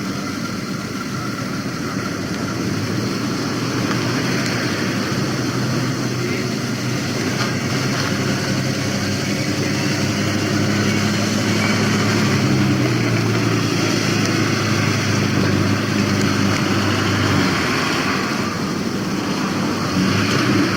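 Vintage motorcycle engines running and growing louder over the first few seconds. The engine note shifts in pitch midway and drops away near the end.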